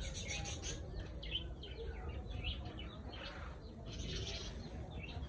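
Small birds chirping and twittering, many short high calls in quick succession, over a low steady outdoor rumble.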